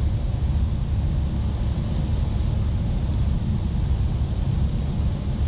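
Cessna 172 cockpit on final approach: a steady low drone of the engine and propeller at idle power, mixed with the rush of air over the airframe.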